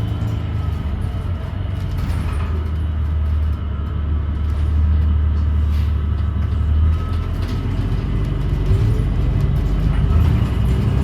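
2017 New Flyer XDE40 diesel-electric hybrid bus drivetrain running while driving, heard from inside the bus: a steady low drone that shifts in pitch about seven seconds in, with a faint whine above it.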